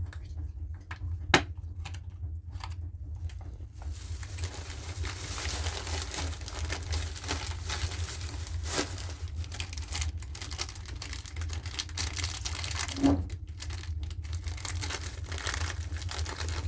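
Crinkling and rustling handling noise, with a few sharp clicks in the first few seconds and a steady low hum underneath.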